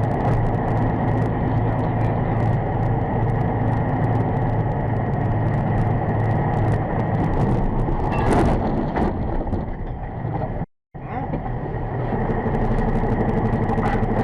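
Steady vehicle driving noise, engine and road rumble with a low hum, as recorded from a moving car. It cuts out briefly about eleven seconds in and resumes.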